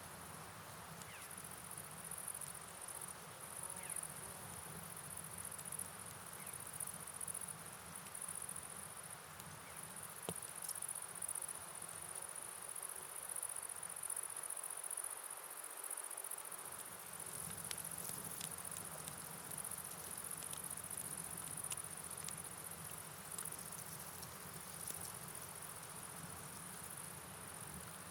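Night rain-and-river ambience: an even wash of falling water with a high, steady hiss over it and scattered soft ticks of drops. The low rumble of the water drops away for a moment about halfway through, then returns.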